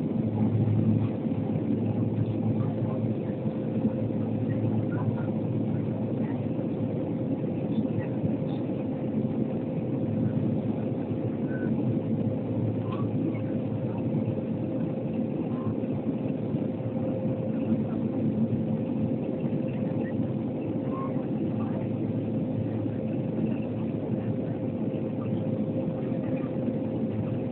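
Cabin noise of an Antonov An-140 twin turboprop on approach: a steady propeller and engine drone with a constant mid-pitched tone and a deep hum, with faint scattered ticks and rattles.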